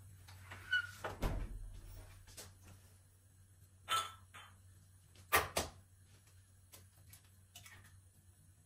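A few knocks and clacks of things being handled in a small room: a dull thump about a second in, then a sharp clack, then a quick pair of clacks.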